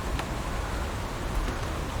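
Heavy rain falling steadily on leaves, an even hiss with a low rumble underneath and a few sharper drop ticks.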